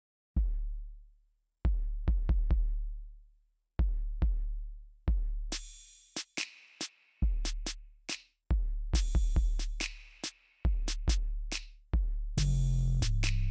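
Electronic music built on a drum machine beat: deep, slowly fading bass drum hits start about half a second in, bright hissing cymbal or snare hits join about five seconds in, and a steady bass note comes in near the end.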